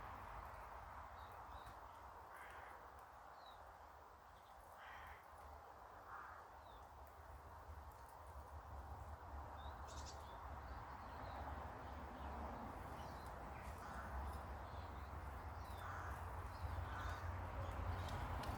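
Garden birds calling on and off: short, rough calls scattered through, with faint high chirps between them over a low steady rumble.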